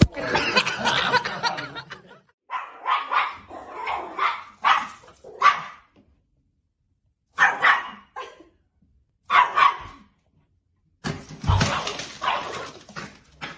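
Dogs barking in a run of short bursts, with a few breaks of silence between them.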